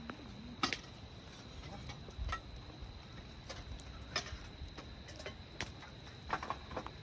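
Irregular light clicks and knocks, roughly one a second with a quick cluster near the end, over a faint steady high tone.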